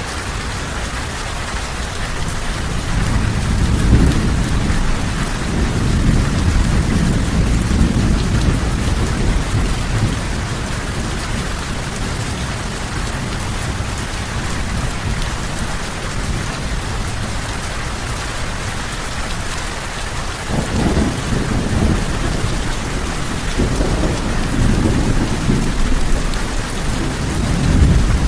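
Steady heavy rain hissing, with rolling thunder rumbling low, swelling a few seconds in and again in the last third.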